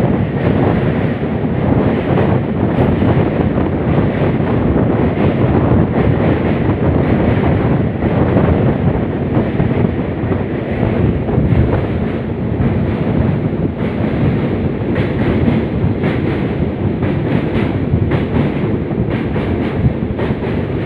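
Passenger express train running at speed: a steady rumble with scattered wheel clicks, and wind buffeting the microphone.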